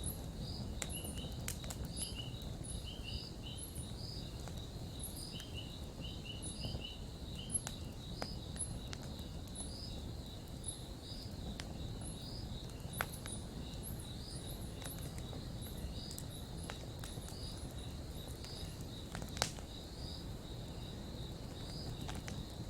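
Campfire burning with a steady low rush and scattered crackles and sharp pops, three of them louder than the rest. Insects chirp in a steady repeating rhythm behind the fire.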